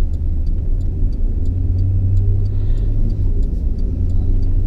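A truck driving on a snowy mountain road, heard from inside the cab as a steady low road and engine rumble, with faint light ticking about twice a second.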